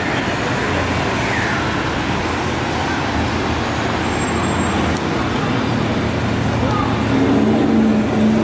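Car engines and road traffic running steadily, with one engine note coming up louder near the end.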